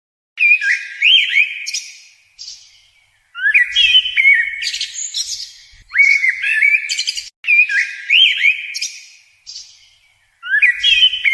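A songbird singing short, loud phrases of quick rising and falling whistled notes, about five phrases with silent gaps between.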